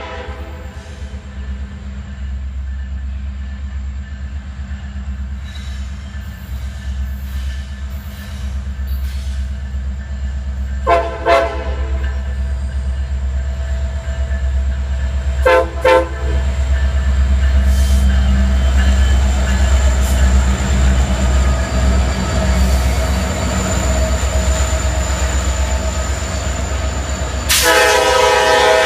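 Diesel freight locomotive running with a steady low engine rumble that grows louder about halfway through, its multi-chime air horn sounding a short blast about 11 seconds in, another short blast a few seconds later, and a longer blast near the end.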